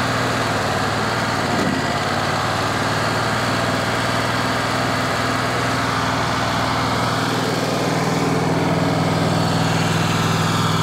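Wood-Mizer band sawmill running steadily, its engine under load as the band blade cuts through a walnut log. About seven seconds in the engine note changes: the deepest part of the hum drops out and a slightly higher hum grows stronger.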